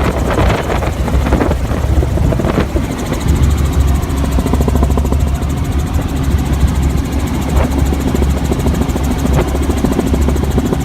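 Helicopter in flight, heard from inside the cabin: a steady, loud drone of engine and rotor with a fine, even rotor beat.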